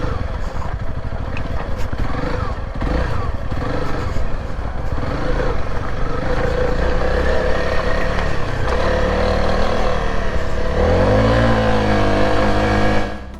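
Motorcycle engine running while riding, its pitch rising and falling with the throttle and climbing clearly about eleven seconds in, over a rushing noise. It cuts off suddenly near the end.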